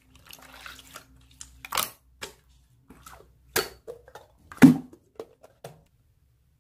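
Slime being pressed and stretched by hand, giving sharp popping clicks with softer crackles between them; three pops stand out, and the sounds stop about a second before the end.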